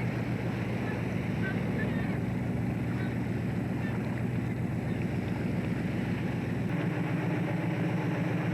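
A fishing boat's diesel engine running with a steady, low, even drone. The hum shifts slightly about two-thirds of the way through.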